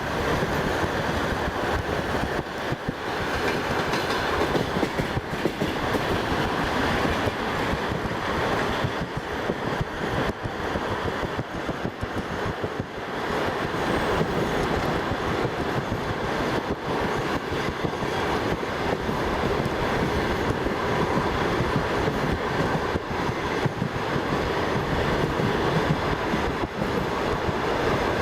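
Passenger train carriage running along the track: steady rumble with the clickety-clack of wheels striking rail joints.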